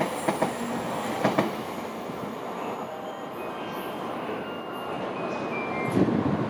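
A 700-series Shinkansen train rolling out of the station on the next track, with a few sharp clicks from its wheels over rail joints in the first second and a half as its last car goes by. Its steady rolling noise dips, and a louder rumble rises near the end.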